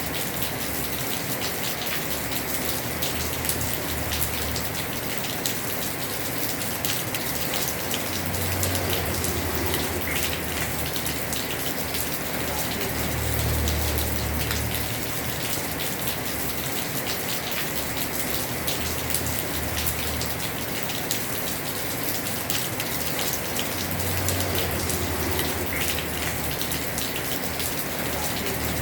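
Heavy rain pelting a house roof: a dense, steady hiss of drops with fine ticks throughout, and a low rumble that swells and fades every few seconds.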